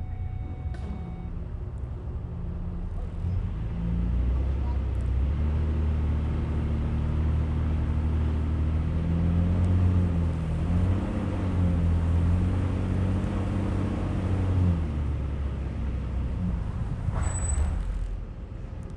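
A car engine, heard through a camera mounted on the hood, running low and then louder from about four seconds in as the car moves off, easing back after about fifteen seconds. A short hiss comes near the end.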